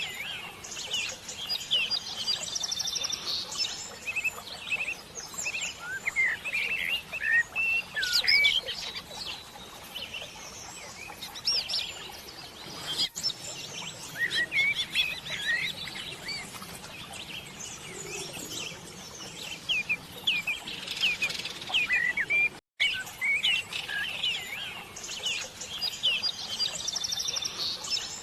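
Birds chirping: a steady stream of short, quick chirps and tweets, with a buzzy, rapid trill near the start and again near the end.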